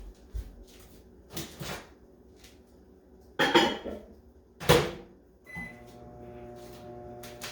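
Glass dish and microwave door clunking as the dish goes in and the door is shut, then a short keypad beep and the 900-watt microwave oven starting up with a steady hum.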